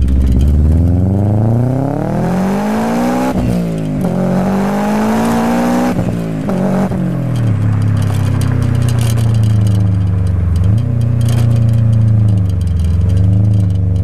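Toyota 2JZ inline-six engine of a car accelerating hard. The revs climb, drop sharply at an upshift about three and a half seconds in, climb again and drop at a second shift about six seconds in, then settle into a steady cruise with small throttle changes.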